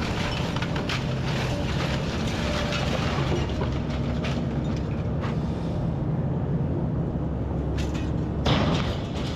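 Kobelco SK210 hydraulic excavator's diesel engine running steadily under load, with scattered cracks and knocks of demolition debris and a louder crash near the end.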